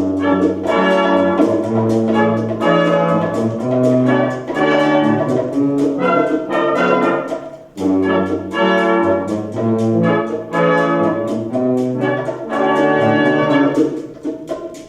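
Military brass band playing at full strength, trumpets and trombones over low brass, with short accented notes on a quick steady beat. The music comes in suddenly and breaks off briefly about eight seconds in before carrying on.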